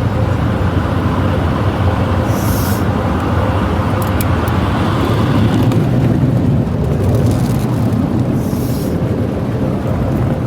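Automatic tunnel car wash machinery running loud and steady, heard from inside the car, with two brief high hisses of spray or air about two and eight seconds in.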